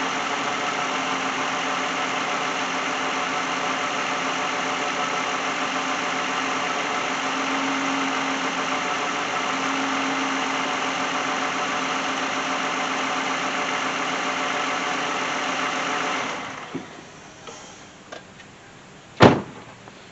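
A 2010 Lexus engine idling steadily while its alternator output is checked, then shut off about 16 seconds in. A few small ticks follow, then one sharp knock near the end.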